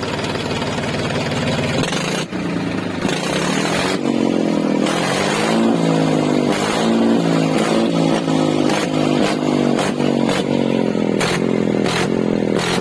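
Tractor diesel engine running with its silencer removed. It runs steadily at first, then from about four seconds in it is revved up and down again and again, with several sharp cracks from the open exhaust.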